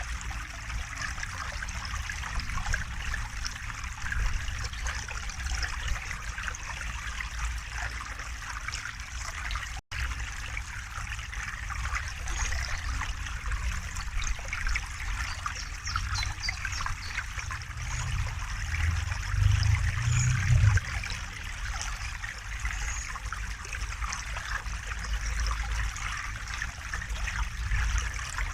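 A river or stream flowing steadily, its water babbling and trickling over a deep low rumble. The sound cuts out for an instant about ten seconds in, and the low rumble swells briefly about two-thirds of the way through.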